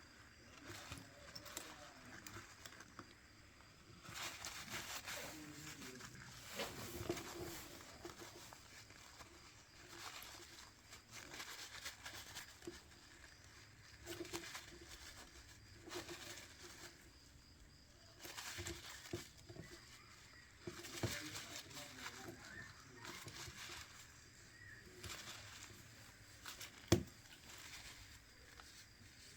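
Faint, irregular rubbing and handling noises of hands and small tools working on a smartphone, with a single sharp click near the end.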